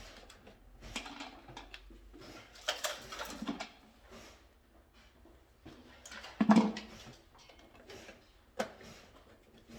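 Hand work at a bench: irregular rustling and short clicks of tools and parts being handled, with a louder knock about six and a half seconds in.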